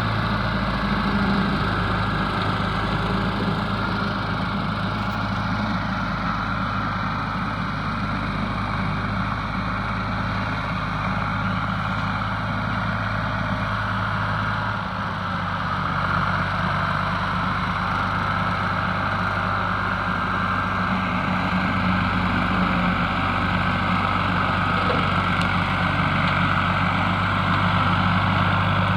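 Ford 4000 three-cylinder diesel tractor engine running steadily, powering a seven-foot bush hog rotary cutter while mowing brush, with a brief slight dip in engine sound about halfway through.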